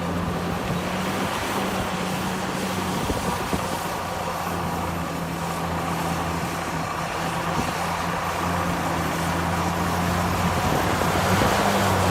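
Heavy diesel engine of earthmoving machinery running steadily under load, its loudness rising slightly toward the end.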